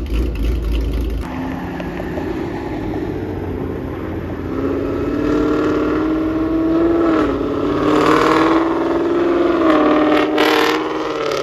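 A car engine running, then revved up from about four seconds in and held at high revs, its pitch easing up and down.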